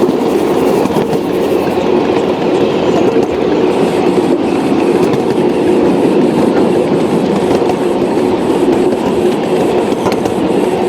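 Model train running along the layout's track, a steady motor and wheel hum with a light, regular clicking of wheels over rail joints.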